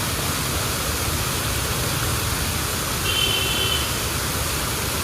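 Steady, even rushing noise that does not let up, of the kind made by falling water or wind. A short high-pitched tone sounds once about three seconds in, lasting under a second.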